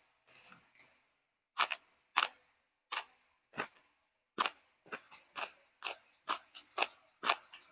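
Crisp crunching and chewing of crunchy food, sharp crunches coming irregularly at first and then about twice a second from halfway through.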